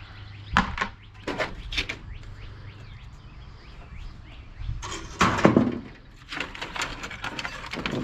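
Sheet-metal clanks and scrapes as an air-conditioner unit is taken apart for scrap: a few separate knocks in the first two seconds, a louder clattering scrape about five seconds in, and a quick run of rattles near the end.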